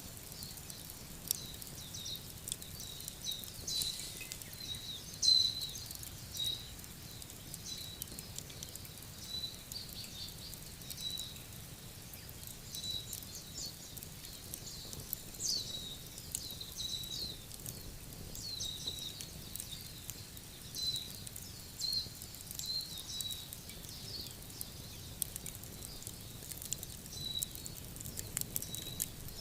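Small birds chirping again and again, short high calls that drop in pitch, with faint scattered crackles like those of a wood fire.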